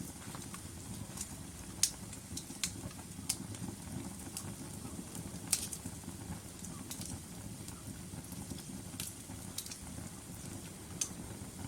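Wood logs burning in a fireplace: a steady low rumble of the flames with irregular sharp crackles and pops, the loudest about two seconds and five and a half seconds in.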